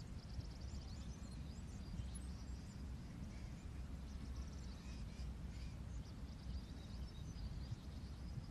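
Small birds chirping and trilling in woodland, many short high calls in quick runs, over a low steady rumble of background noise.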